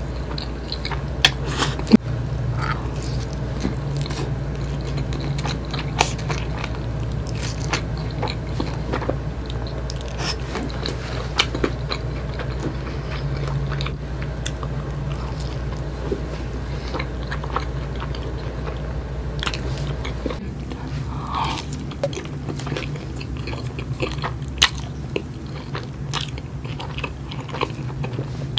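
Close-miked biting and chewing: a person taking big bites of food, with many sharp crunchy clicks over a steady low hum, the loudest crunches about a second and two seconds in.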